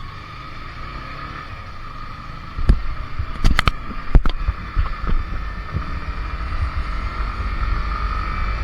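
Motorcycle engine running with a steady hum, and wind rumble on the microphone that grows from about two and a half seconds in. A few sharp knocks come between about three and four seconds in.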